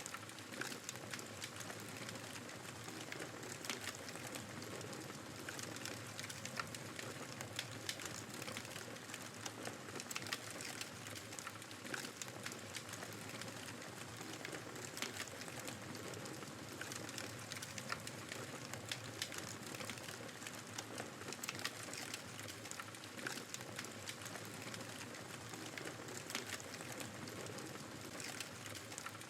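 Wood fire crackling with frequent small pops over a steady rush of blizzard wind.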